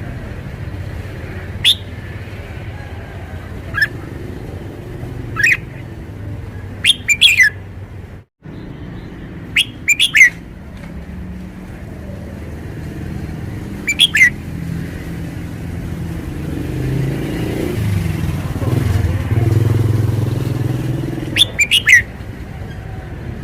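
Red-whiskered bulbul singing in short, loud bursts of sharp notes every few seconds, some in quick pairs. Under it a low rumble swells in the middle and fades again.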